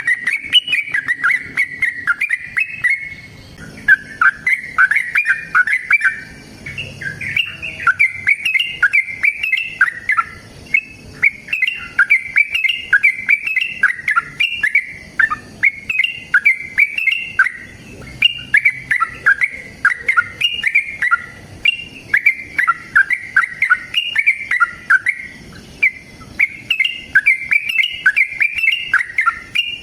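Yellow-vented bulbul (trucukan) singing in long, rapid runs of bubbly, chattering notes, phrase after phrase with only brief pauses between them. This is the fast, extended song that keepers use as a lure to get other bulbuls to answer.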